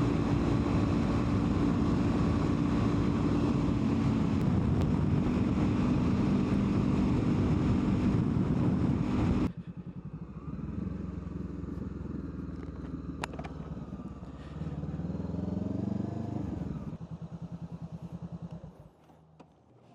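Motorcycle riding: loud, steady engine and wind noise that cuts off suddenly about halfway through. A quieter run of the engine follows, rising in pitch as it speeds up, then chugging in slow even pulses before it fades near the end.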